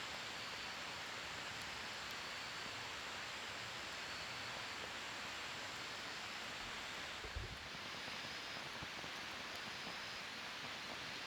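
Wood fire burning in a fire pit: a steady hiss with faint scattered crackles, and one soft low thump about seven seconds in.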